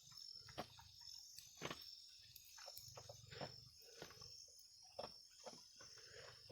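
Faint, steady high-pitched trilling of night insects, with scattered light clicks and rustles.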